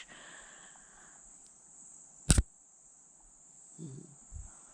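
Steady high-pitched insect chirring, typical of crickets in woodland, with one sharp snap or knock about two seconds in.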